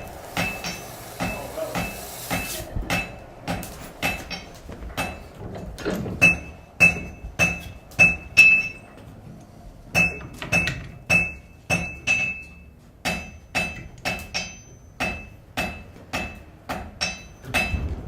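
Blacksmith's hammer striking on an anvil in a steady rhythm, about two blows a second, each with a bright ringing note. The hammering breaks off for about a second a little past the middle.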